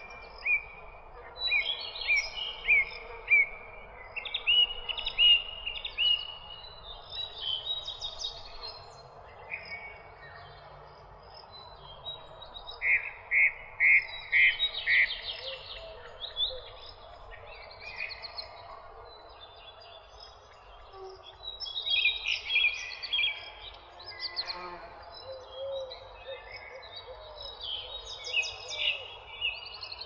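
Songbirds chirping and singing: overlapping phrases of short, high, repeated notes and trills over a steady background hiss. About halfway through comes a run of five loud, evenly spaced notes.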